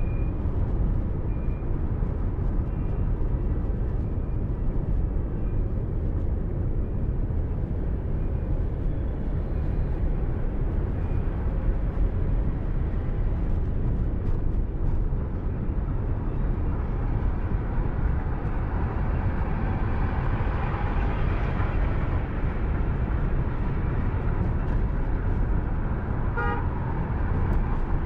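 Steady road and engine noise of a car driving on a highway, picked up by a dashcam. Vehicle horns toot now and then, with a short, clear horn blast near the end.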